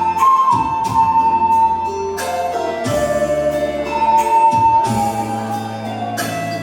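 Music from a group of players: a flute-like wind melody of long held notes, over sustained low accompaniment notes and light regular percussion.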